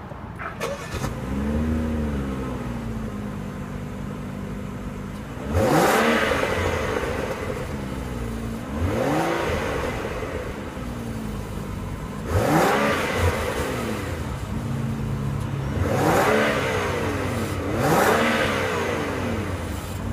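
BMW X6 xDrive35i's turbocharged 3.0-litre inline-six starting up: it flares briefly, settles to idle, then is revved five times, each rev rising quickly and falling back to idle.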